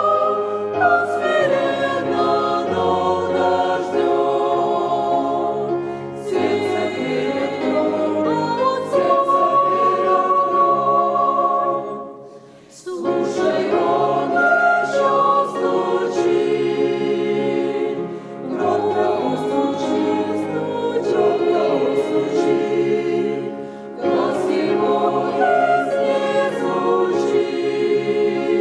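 Church choir singing a Russian hymn in sustained chords, phrase by phrase, with a short break for breath about twelve seconds in.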